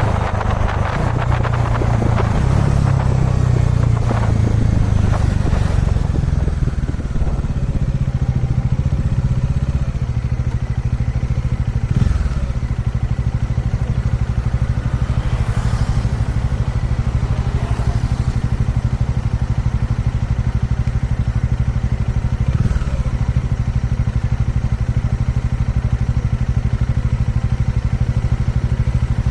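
Kawasaki Dominar 400 UG2's single-cylinder engine running at a steady speed, with more rushing noise in the first few seconds and a couple of light knocks.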